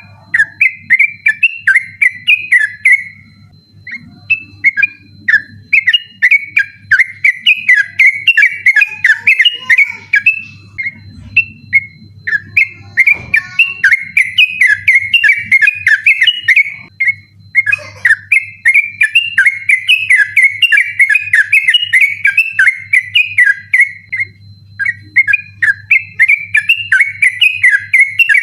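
Yellow-vented bulbul (trucukan) singing its rapid rolling 'ropel' song without letting up: long runs of quick notes, broken by brief pauses about four, twelve, eighteen and twenty-four seconds in. A steady low hum and a faint thin high tone run underneath.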